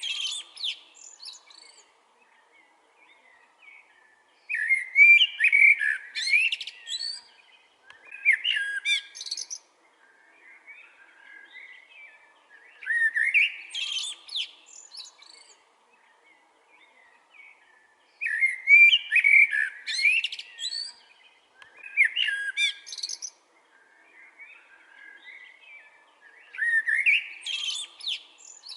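Blackbird singing: loud, varied song phrases of one to two seconds, about seven of them spaced a few seconds apart, with softer twittering in between.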